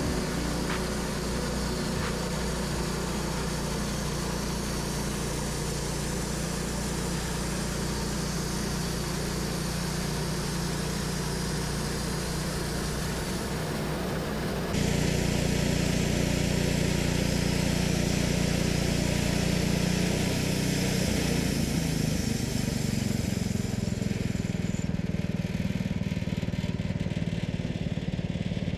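Portable sawmill's engine running steadily. About halfway through it abruptly gets louder and changes tone.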